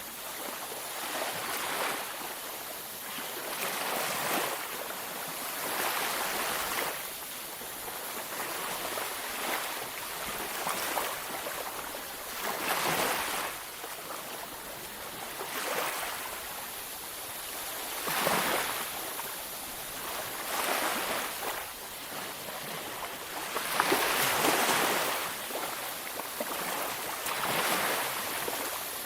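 Waves breaking and washing on a beach, a steady wash of surf that swells and falls every few seconds.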